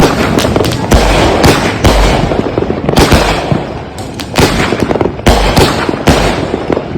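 Consumer aerial firework cakes going off. Booming bursts come at uneven intervals, about every half second to a second, with dense crackling between the shots.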